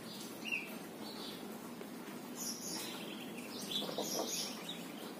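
Small birds chirping on and off in the background: short, high-pitched calls a few times, with a clustered run of chirps around the middle and again near the end.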